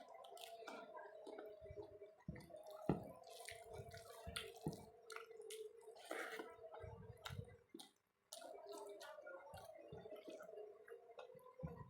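Faint close-up eating sounds: chewing and wet squishing of rice and dal, with small mouth clicks and soft thumps, over a steady low hum. Everything drops out for a moment about eight seconds in.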